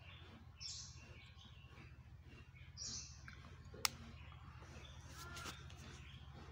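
Faint bird calls over a steady low hum, with a single sharp click a little before the four-second mark.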